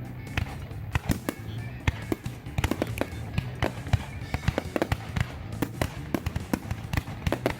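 Fireworks bursting in rapid, irregular succession, many sharp bangs and crackles close together, with background music underneath.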